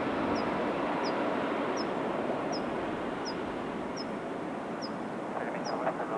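Airbus A320 jet noise, a broad roar slowly fading as the plane moves away. A small bird's short high chirp repeats about every three-quarters of a second.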